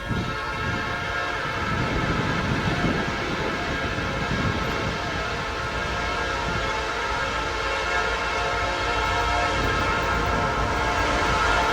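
Diesel freight train approaching with its air horn sounding a steady chord over the rumble of the locomotive. It grows slowly louder as it nears.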